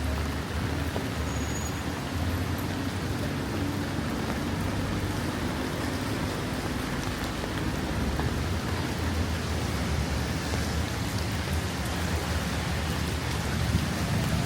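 Steady rain falling, with raindrops pattering on surfaces and a low rumble underneath.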